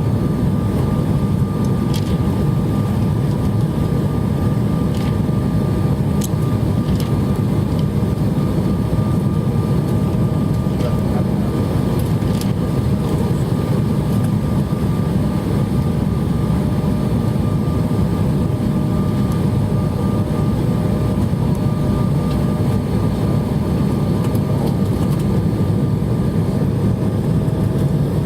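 Jet airliner cabin noise during the descent: a loud, steady roar of engines and rushing air with a thin steady tone above it.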